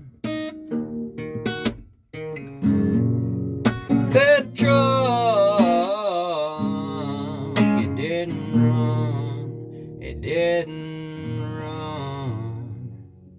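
Acoustic guitar strumming the song's closing chords, with a wordless sung line over it in the middle. The playing tapers off and fades near the end.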